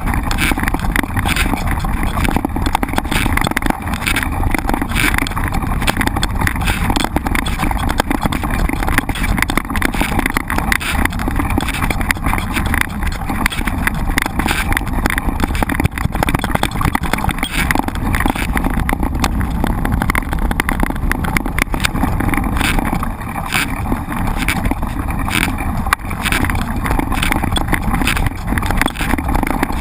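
Steady wind rush on the microphone of a camera riding on a mountain bike, with constant rattles and knocks from the bike jolting over a rough trail.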